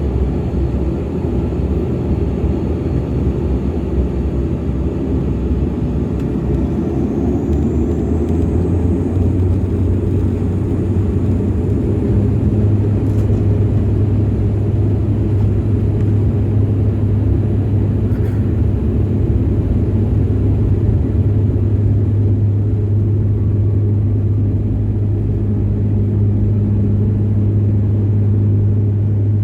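Dash 8 turboprop airliner's engines and propellers during takeoff: a loud, steady rumble with a strong low propeller drone that firms up about twelve seconds in.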